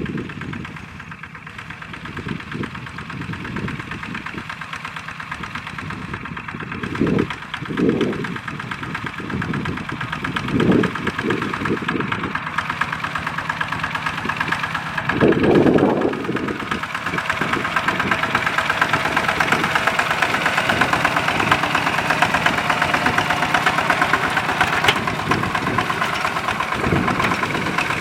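Mini tractor engine running continuously with a rapid knocking pulse. It surges several times, strongest about fifteen seconds in, then holds a steadier, busier note.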